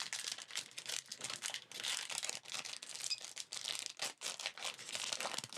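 A Yu-Gi-Oh booster pack's foil wrapper being torn open and crinkled in the hands, a dense run of irregular crackles.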